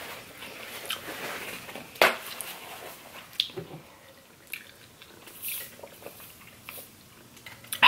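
Close-miked chewing and wet mouth sounds of someone eating crab leg meat dipped in butter sauce, with scattered smacks and clicks and a sharper click about two seconds in.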